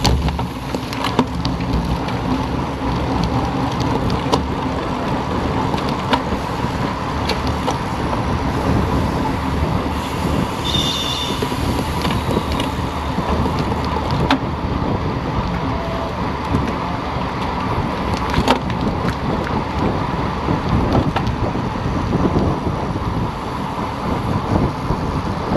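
Wind noise rushing over the microphone of a bicycle rider's camera at speed, mixed with tyre and road noise. There is a brief high-pitched tone about eleven seconds in.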